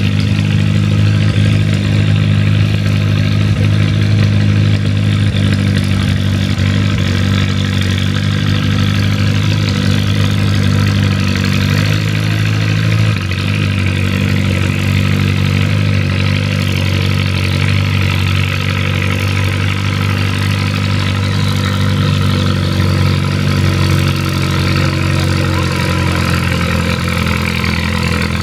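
Antique farm tractor engine running loudly and steadily, with a brief dip in level about halfway through.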